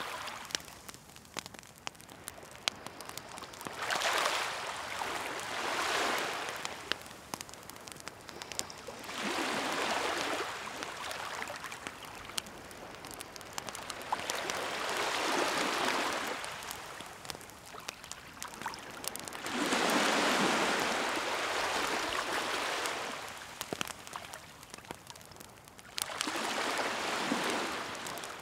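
Waves washing onto the shore in slow surges, each swell rising and falling over a couple of seconds about every five seconds, with a wood campfire crackling and popping throughout in scattered sharp clicks.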